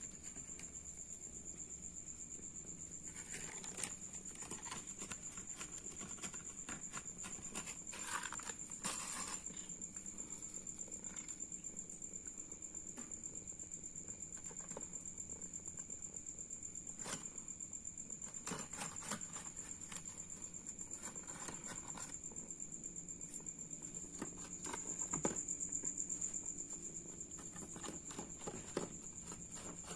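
A steady high-pitched insect drone, with scattered small clicks and taps over it.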